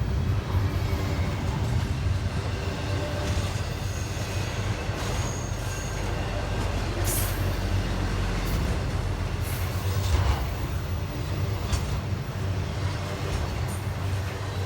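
Norfolk Southern freight train's cars rolling past: a steady rumble of steel wheels on rail, with a short high wheel squeal about five seconds in.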